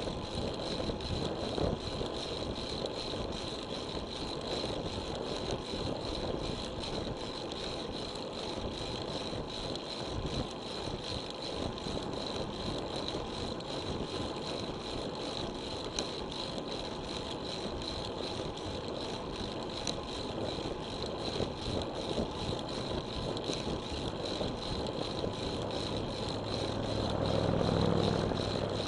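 Wind and road noise from riding a road bicycle, picked up by an action camera. Near the end, a motor vehicle passes: a low engine sound swells and then fades.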